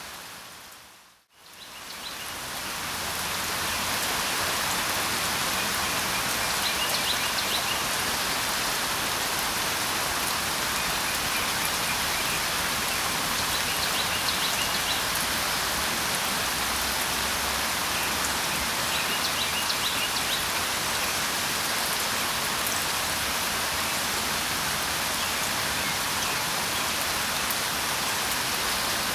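Steady rain, fading out about a second in and swelling back up within a couple of seconds. Faint short bird chirps come now and then over the rain.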